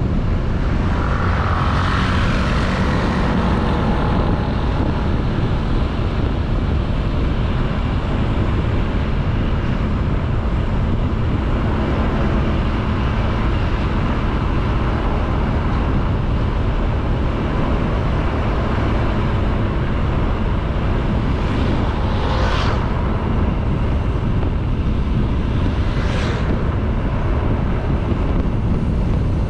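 Honda Beat 110cc single-cylinder scooter on the move, its engine and tyre noise mixed with a steady rush of wind on the microphone. Two brief whooshes stand out, about 22 and 26 seconds in.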